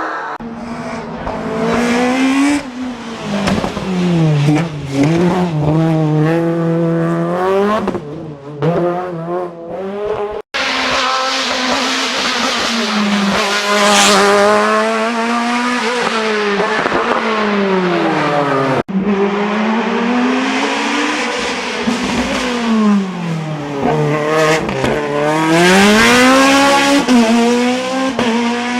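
Racing car engines at full throttle on a hill climb, revving up and dropping in pitch again and again as the cars shift gear and brake for corners. The sound comes in three separate takes joined by abrupt cuts.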